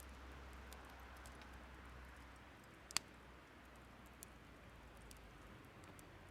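Firewood burning with faint, scattered crackles and one sharp pop about three seconds in.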